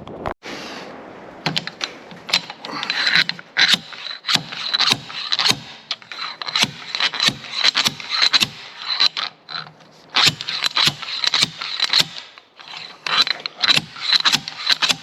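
Hammer blows on steel mower parts, about two a second and unevenly spaced, each with a bright metallic ring, while working a shaft and bearing out of a mower.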